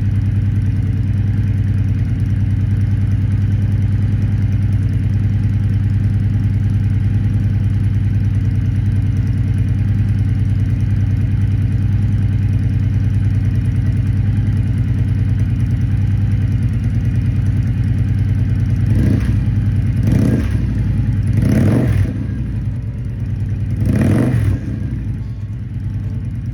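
Victory Vision Tour's V-twin engine idling steadily, then revved in four short blips near the end.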